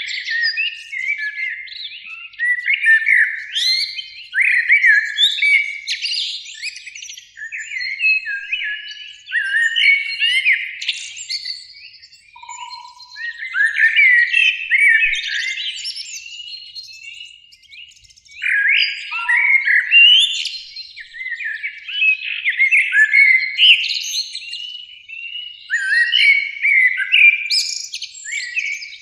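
Eurasian blackbirds singing: whistled, warbling phrases of a few seconds each, following one another with short dips between.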